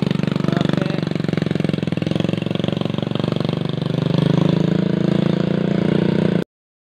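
Small motorcycle engine running with a rapid, even chug. It eases off about three and a half seconds in, picks up again, then cuts off abruptly near the end.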